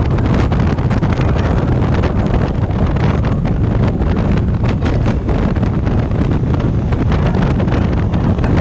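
Heavy wind buffeting on the microphone of a motorcycle at riding speed, a steady low rumbling rush with rapid flutter that covers any engine sound.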